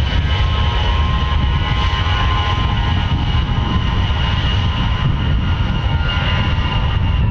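Military jet aircraft engines running, a steady loud rumble with a high whine over it.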